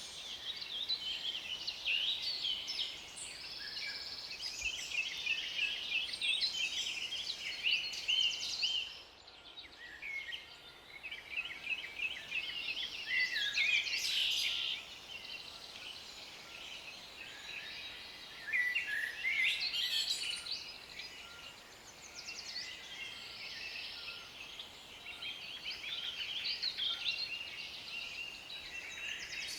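Several birds singing together, with many overlapping chirps and quick trills and a brief lull about a third of the way in.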